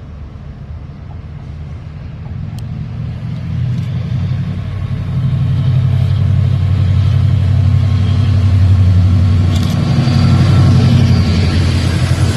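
Train passing close by, its locomotive's low engine drone growing louder over the first five seconds and then staying loud, with a few faint clicks.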